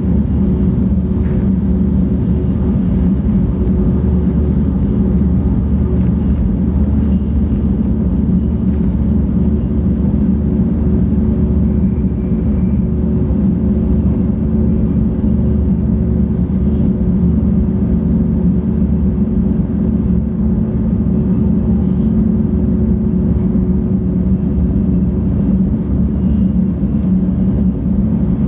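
Cabin noise inside a 700 series Shinkansen car travelling at speed: a steady low rumble with a faint constant hum, and a few light ticks in the first third.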